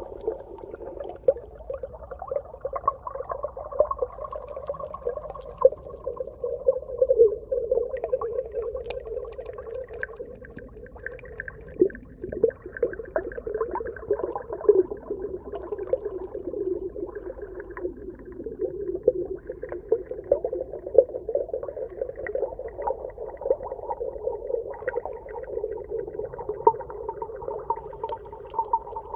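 Underwater ambience: a continuous muffled wash with shifting low moan-like bands, sprinkled with many small clicks and pops.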